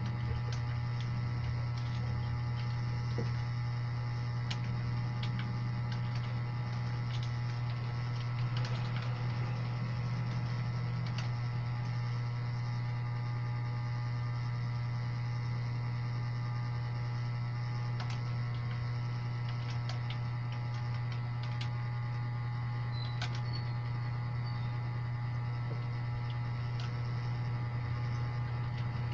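A steady low electrical hum, with scattered, irregular clicks of computer keyboard keys being pressed.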